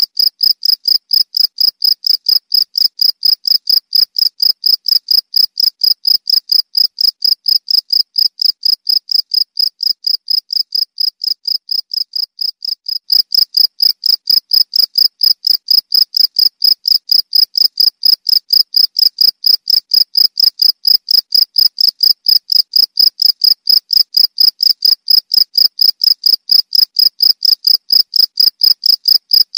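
Cricket chirping, a high, even pulsing of about four chirps a second. The chirping softens slightly for a few seconds, then jumps back up to full loudness about 13 seconds in.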